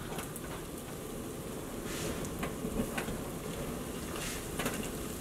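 Beer-battered tog pieces frying in shallow hot canola oil in a pan: a steady sizzle with scattered faint crackles.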